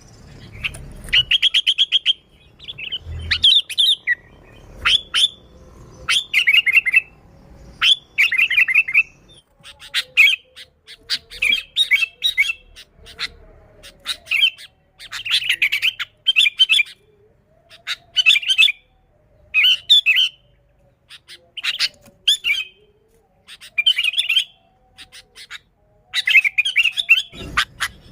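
Sooty-headed bulbul (kutilang) calling vigorously: short, bubbling, chattering phrases of rapid stuttered notes, repeated every second or two.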